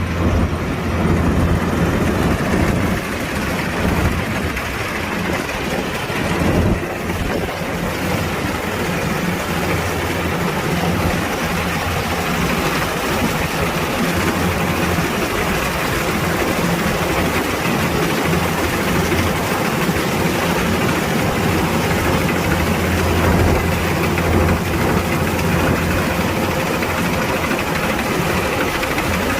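Kubota DC-105X combine harvester's diesel engine running steadily, a constant low drone.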